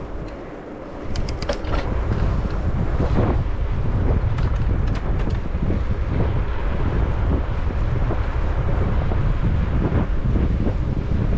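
Wind buffeting a GoPro microphone on a moving bicycle: a steady low rumbling rush that rises sharply about a second in, with a few light clicks just before it.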